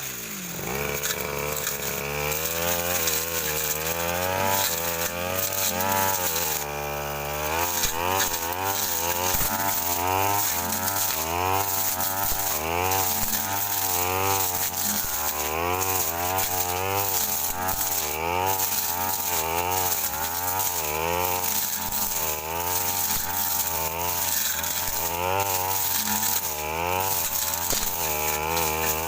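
Brush cutter engine running under load as its blade swings through dense undergrowth, the engine pitch rising and falling about once a second with each sweep. Near the start the engine drops low and picks up again.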